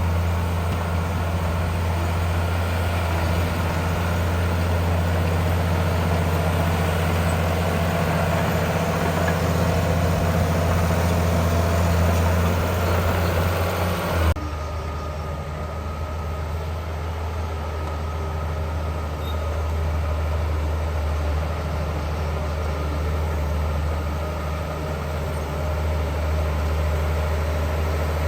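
Heavy construction-machine diesel engine running steadily with a low hum. The sound changes abruptly about halfway through to a slightly quieter engine note.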